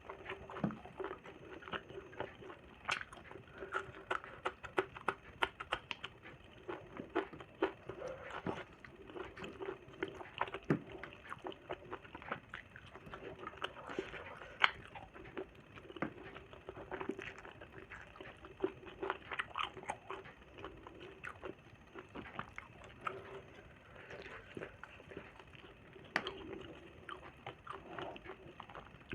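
Close-up chewing and mouth smacking of someone eating, a constant run of irregular short wet clicks, over a faint steady hum.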